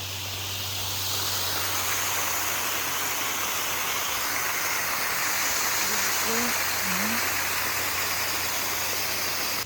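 Waterfall of Bear Run below Fallingwater, a steady rushing of falling water that swells about a second in.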